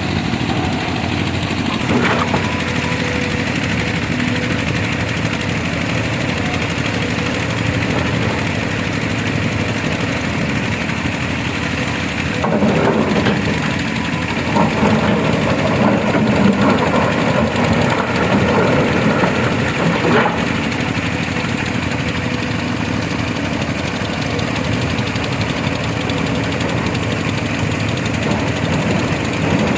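Excavator's diesel engine running steadily, growing louder for several seconds around the middle.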